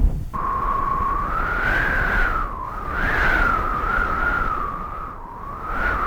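Storm wind howling, a wavering whistle that rises and falls in pitch over a rushing hiss.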